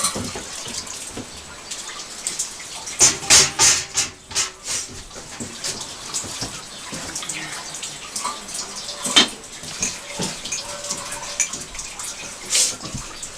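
Hand work on wood: a quick run of sharp strokes about three seconds in, then two single sharp knocks later on, over a low rustling noise.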